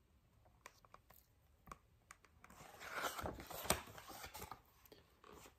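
Faint rustle and scratch of paper, with a few soft clicks, as a picture book is handled and its page turned. The rustling comes in a short cluster about halfway through.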